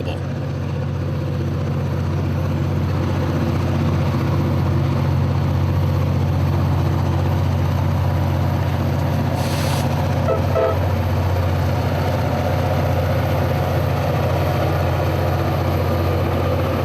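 Two EMD diesel locomotives, a GP40-2 and a GP38-2, working in Run 8 (full throttle) as they lug a freight train up a grade, with a steady, deep engine drone that grows louder over the first few seconds. A brief hiss comes a little past the middle.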